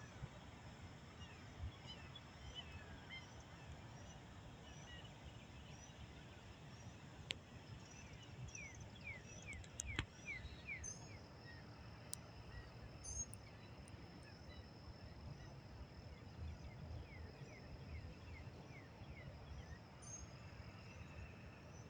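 Faint outdoor ambience of birds calling: a short high chirp repeats about once a second, and runs of quick descending notes come about nine seconds in and again near the end. A low rumble, a thin steady high tone and a few sharp clicks sit under them.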